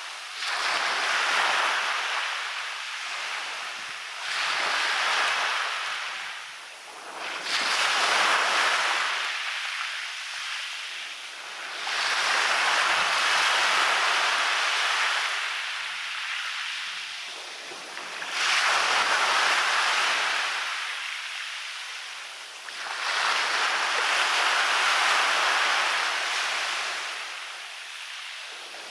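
Small waves breaking and washing up the beach, the surf swelling to a hiss and ebbing away about six times, every few seconds.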